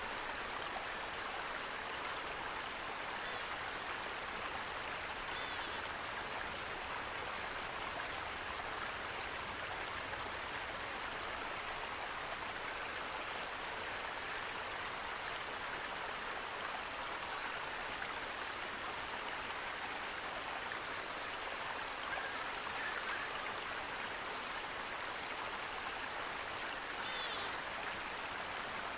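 Steady, even rush of running water from a stream or waterfall, with a couple of faint brief high chirps about five seconds in and near the end.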